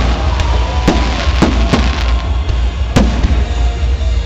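Fireworks salute going off: a string of sharp bangs, about six in four seconds at uneven spacing, over a steady low rumble.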